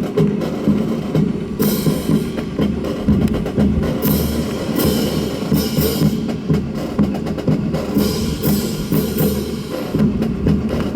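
Drum-led percussion music with a steady, driving beat.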